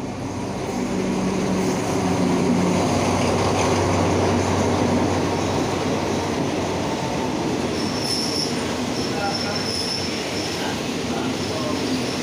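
Diesel-hauled passenger train moving past the platform. The locomotive's diesel engine drone swells over the first couple of seconds, then the coaches rumble by on the rails. Short, high metallic squeals come in from about two-thirds of the way through.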